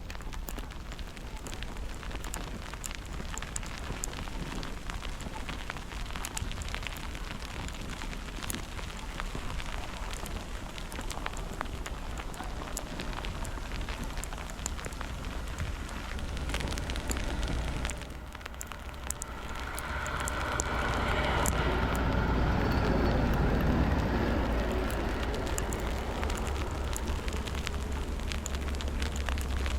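Snowstorm street ambience: a steady, irregular crackling patter under a low wind rumble. From about 19 seconds in, a vehicle swells past on the slushy street and fades.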